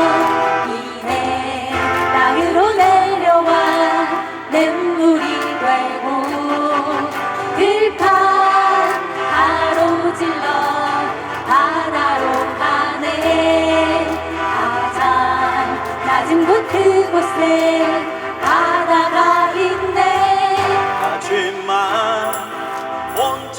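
A mixed group of amateur singers singing a Korean people's song (minjung gayo) together in chorus, accompanied by keyboard and guitar, performed live.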